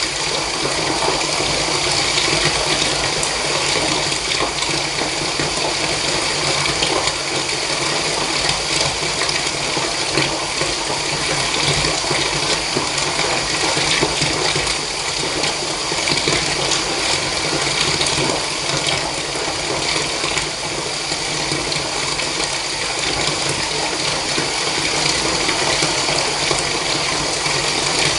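Water running steadily from a tap into a bath.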